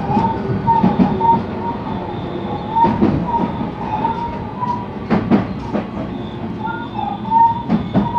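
JR West 223 series electric multiple unit running along the line, heard from inside the car: a steady running rumble with a wavering whine from the inverter traction equipment. Wheels strike rail joints in clusters of clicks about every two seconds.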